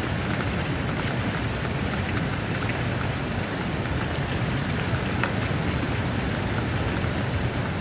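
Steady rain falling, an even hiss with a few sharper single drops standing out now and then.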